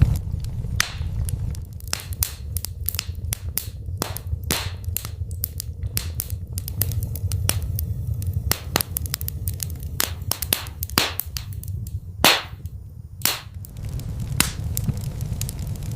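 Fire in a fireplace crackling: frequent sharp pops and snaps over a steady low rumble, with two louder pops about three quarters of the way through.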